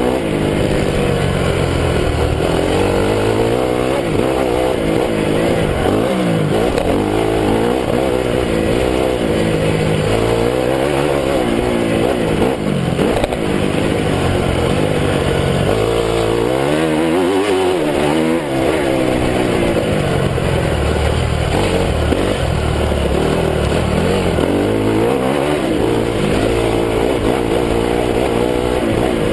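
2009 Honda CRF250 motocross bike's four-stroke single-cylinder engine, heard from a camera mounted on the bike, revving up and down over and over as the rider works the throttle and gears around the track. The revs drop off for about two seconds just past the middle, then climb again.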